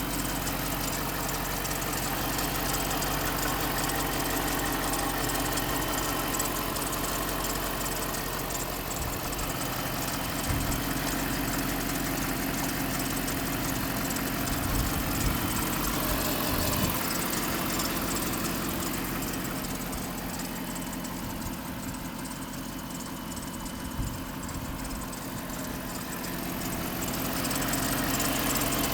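2011 Jeep Grand Cherokee's 5.7-litre HEMI V8 idling steadily, with a squeaking noise in the engine sound whose cause the owner does not know.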